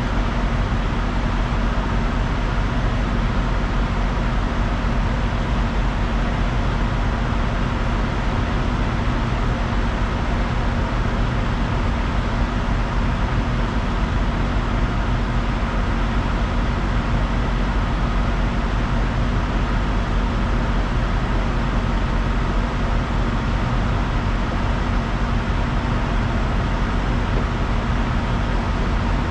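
Steady drone of a truck's diesel engine with road noise, holding an even level throughout.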